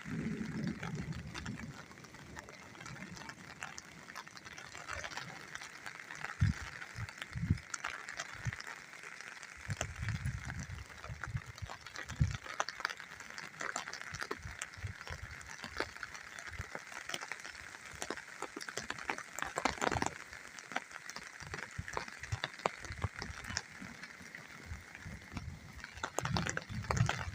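Rain falling with a steady patter of many small drops, and a few low rumbles.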